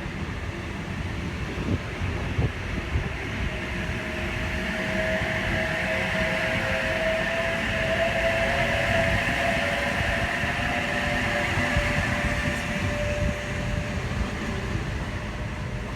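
Sydney Trains H-set (OSCAR) electric train moving past along the platform: a steady rumble of wheels on the rails with a faint whine, a little louder around the middle.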